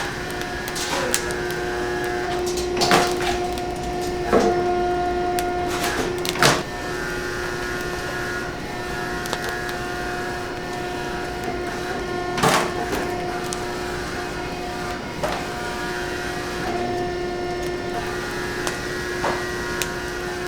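Steady mechanical hum from running kitchen machinery, with a few sharp knocks and clatters of utensils or equipment scattered through it.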